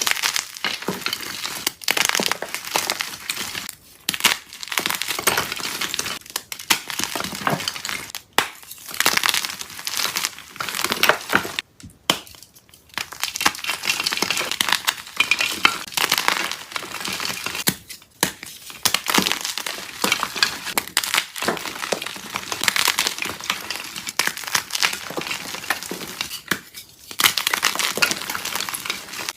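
Soft round pieces of dyed chalk being crushed: dense, crunchy crackling and crumbling, broken by short pauses between crushes.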